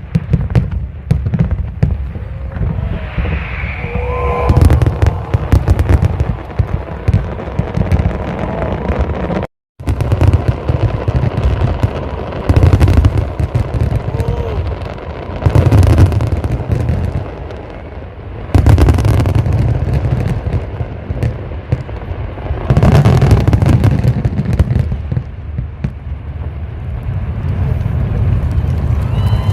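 Fireworks display: shells bursting in quick, overlapping succession, deep booms mixed with crackling, swelling and easing in waves. The sound cuts out completely for a moment about a third of the way through.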